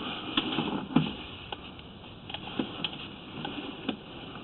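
Irregular light clicks and knocks, about two a second, from a sewer inspection camera's push cable being fed and worked into the line.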